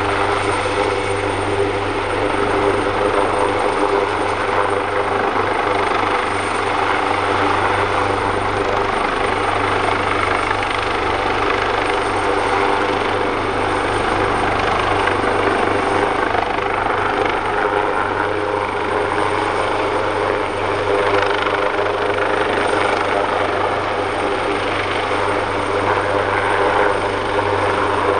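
Leonardo AW139 helicopter running steadily, its two Pratt & Whitney Canada PT6C turboshaft engines and five-bladed main rotor giving a loud, even sound with a steady whine in it.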